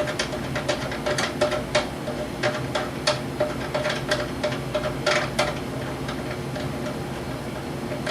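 Threaded adjusting bolt of a wooden rifle rest being twisted by hand to lower the elevator: a run of small, irregular clicks and ticks as the metal turns in its bracket, over a steady low hum.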